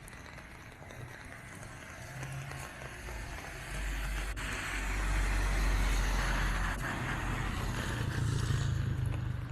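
A motor vehicle passing on a wet road: tyre hiss and a low engine rumble swell, loudest around the middle, and a lower engine hum carries on near the end.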